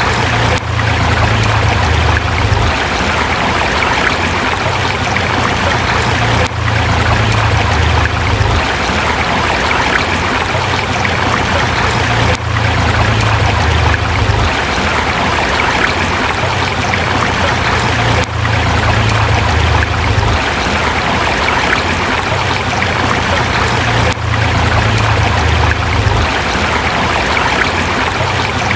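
A forest river running over rocks: a steady, full rush of water with a low rumble beneath. The level dips briefly about every six seconds.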